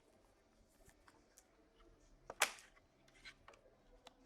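Quiet handling of trading cards: a few light clicks and soft brushing, with one louder swish of a card sliding about two and a half seconds in.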